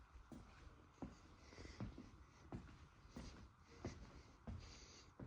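Faint, evenly spaced footsteps, about three every two seconds, with near silence between them.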